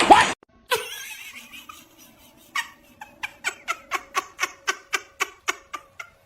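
A person laughing in an even run of short 'ha' sounds, about four a second, starting about two and a half seconds in.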